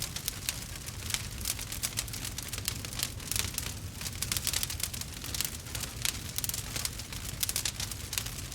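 Burning wood crackling and popping: a dense, continuous run of quick sharp crackles over a steady low rumble.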